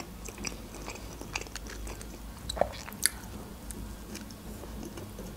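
A woman eating: biting into a piece of bread topped with a soft white spread and chewing it, heard as scattered small mouth clicks, with a couple of louder ones about two and a half and three seconds in.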